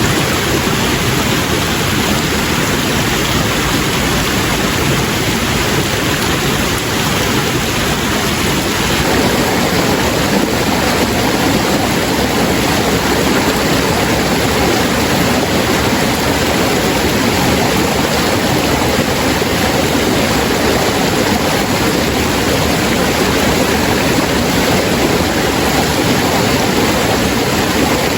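Steady, loud rushing noise with no breaks or changes.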